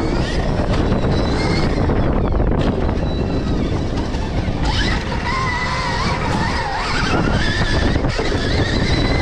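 Stark Varg electric motocross bike being ridden, with heavy wind rush on the microphone and the electric motor's high whine wavering up and down in pitch from about five seconds in.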